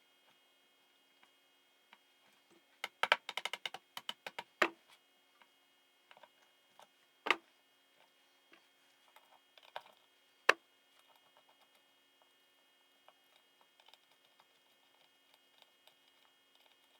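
Tools and engine parts being handled during an engine teardown: a quick run of clicks about three seconds in, then single sharp knocks about four and a half, seven and ten and a half seconds in, with faint tapping between them.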